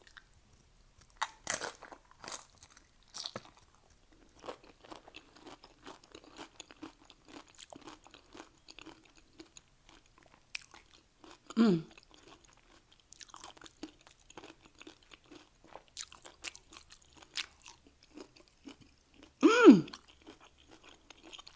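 Close-up chewing and crunching of Doritos nacho chips, many crisp crunches one after another. About twelve seconds in and again near the end there is a short voiced sound falling in pitch, the second one louder.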